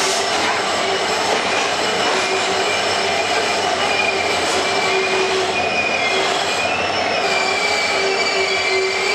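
Express train with ICF passenger coaches running on the rails: a steady loud rolling rumble with wheel squeal, its held tones wavering up and down.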